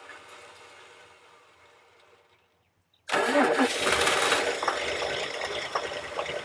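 1989 Dodge D100 pickup engine being cranked after sitting for years. A first attempt dies away, then about three seconds in the starter cranks again and the engine fires and runs briefly before fading near the end, short of fuel.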